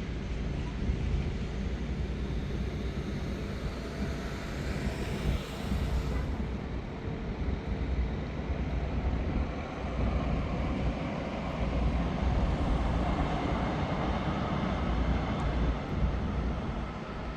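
Light rail train running, a steady rumble with a brighter hiss that swells and then drops off a few seconds in.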